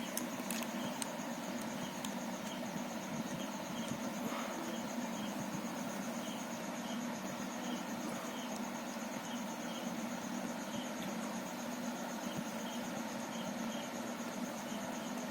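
Steady background noise with a low hum and a high, rapidly pulsing tone running throughout, and a few faint clicks near the start and about four seconds in.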